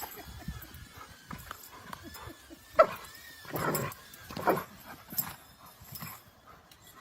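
An animal making short cries and noises, with the loudest sharp one about three seconds in.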